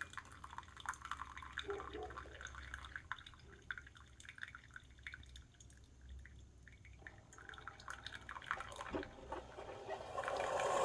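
Keurig K-Supreme Plus C single-serve coffee maker brewing: coffee dripping and trickling into the cup in irregular drips over a low machine hum. A louder, steadier rush starts about ten seconds in.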